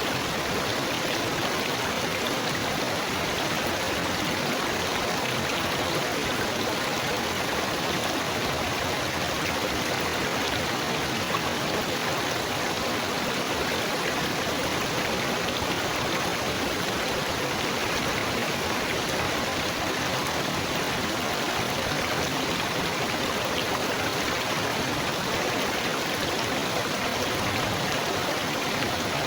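Water trickling and splashing steadily, like a small stream or fountain, with an even, unbroken rush.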